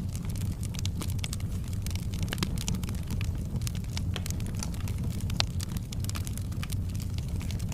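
Fire in a fireplace crackling with irregular snaps and pops over a steady low rumble of the flames, with one sharper pop about five seconds in.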